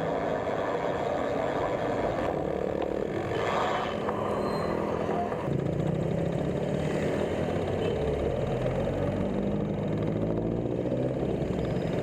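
Road traffic: motor vehicle engines running close by, with a steady low engine hum that grows stronger about halfway through.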